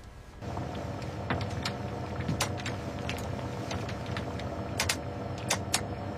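A steady mechanical hum that starts about half a second in, with scattered sharp clicks over it.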